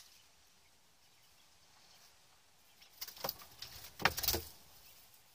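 Near silence, then a brief cluster of noisy flutters about three seconds in, lasting about a second and a half, like a bird flapping its wings in the aviary.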